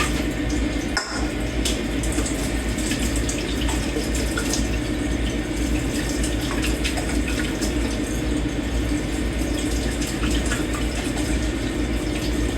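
Kitchen tap running steadily into a sink while dishes are washed by hand, with scattered light clinks of dishes and cutlery and a brief break about a second in.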